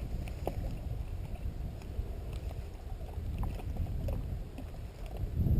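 Low steady rumble of wind and water around a kayak, with a few faint small clicks and a louder low bump just before the end.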